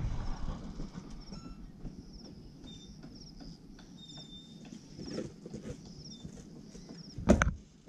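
Quiet outdoor ambience with small birds chirping and whistling, short high notes repeating on and off. A brief louder noise comes near the end.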